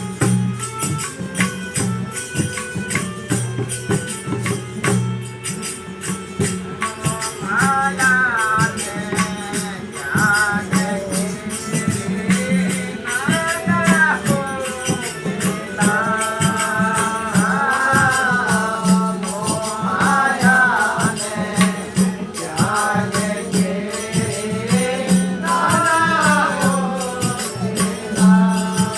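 Devotional satsang bhajan music: a melody over a steady drone with jingling hand percussion, and from about seven seconds in a voice singing in long, bending phrases.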